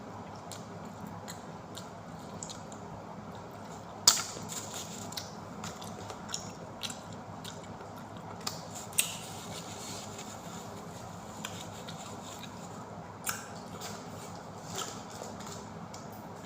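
A person eating pizza close to the microphone: scattered small clicks and crunches of biting and chewing, the sharpest a crisp crack about four seconds in, over a steady low background hum.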